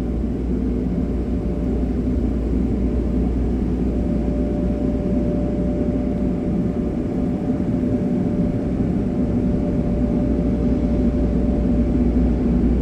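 Automatic car wash air-dryer blowers running steadily, heard from inside the car: a continuous deep rushing roar, with a faint steady hum joining about four seconds in.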